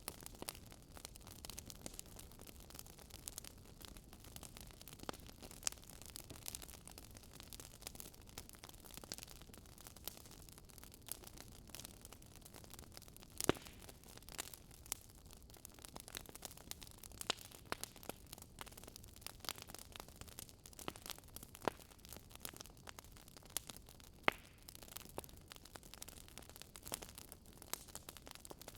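Wood fire crackling: irregular sharp pops and snaps over a soft steady hiss, with a louder pop about halfway through.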